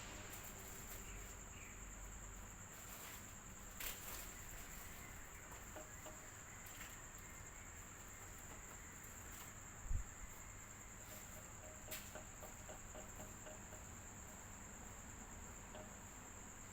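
Electric fan running: a faint steady low hum with a thin, steady high-pitched whine over it. There are a few soft clicks, and a short low thump about ten seconds in.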